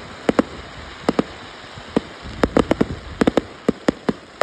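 Aerial fireworks going off in a rapid, irregular run of sharp bangs, about fifteen in four seconds and coming thicker in the second half, over a steady hiss.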